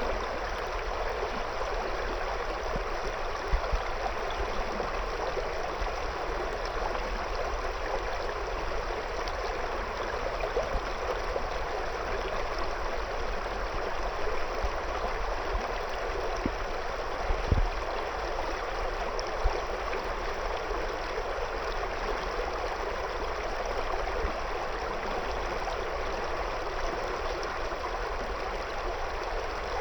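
A shallow river running over stones, a steady rushing burble of water. A few brief low thumps stand out, the loudest a little past halfway.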